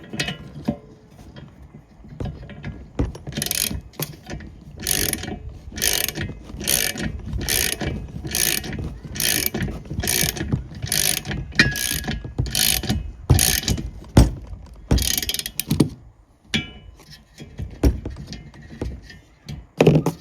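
Socket ratchet wrench clicking in a steady run of back-and-forth strokes, about one every two-thirds of a second, as a bolt with a self-locking nut is tightened. Near the end come a few sparser single clicks and knocks.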